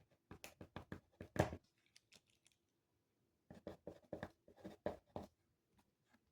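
Pen writing on paper: two bursts of quick short strokes, each lasting about a second and a half, with a pause of about two seconds between them.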